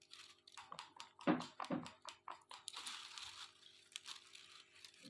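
Faint, irregular clicking and crinkly crunching: a parrot working at something with its beak.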